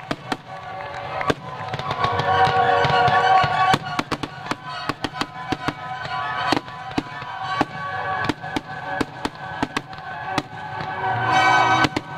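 Aerial fireworks shells bursting in a rapid series of sharp reports, over music with steady sustained tones that swell about two seconds in and again near the end.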